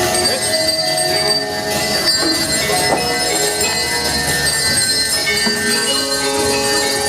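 Balinese gamelan music: bronze metallophones and gongs ringing in a dense, continuous texture of overlapping held tones.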